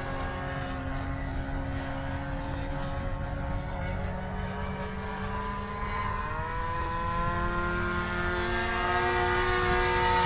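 Propeller engines of radio-controlled model airplanes running in flight, a steady engine note joined about six seconds in by a second engine whose pitch bends slightly as it grows louder toward the end.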